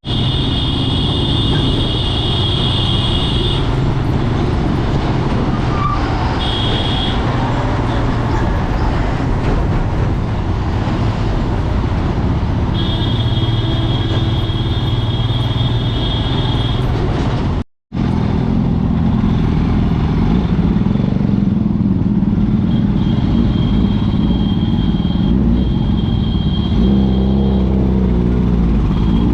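Motorcycle engines running on the road with surrounding traffic noise, breaking off for an instant partway through. Near the end an engine revs up.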